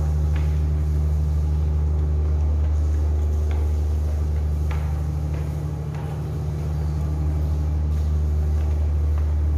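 Steady low drone of a passenger ship's engine machinery running, heard on board the vessel, with a few faint knocks over it.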